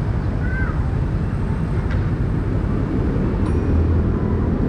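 Steady engine rumble and road noise from a motorcycle ride through city street traffic, with a brief high squeak about half a second in.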